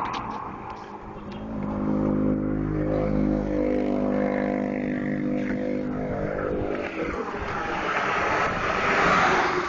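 A motor vehicle's engine passing on the road, its note swelling and then fading, followed near the end by a rush of road noise as traffic goes by.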